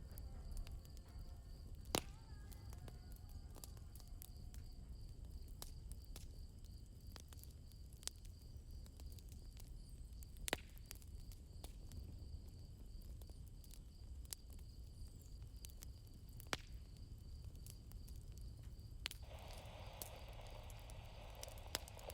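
Campfire crackling, with scattered sharp pops over a low rumble, and crickets chirping steadily in the background. The sharpest pops come about two seconds in, near the middle, and a few seconds before the end.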